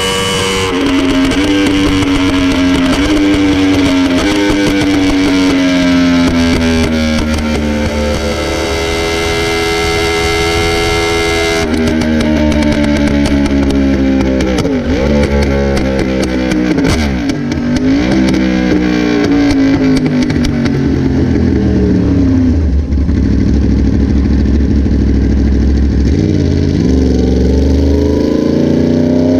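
Motorcycle engine at track speed, its revs rising and falling through the gears, with several quick dips and rises as it shifts.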